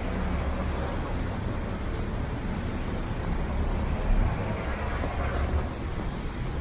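City street traffic noise: vehicles running and passing, with a steady low rumble.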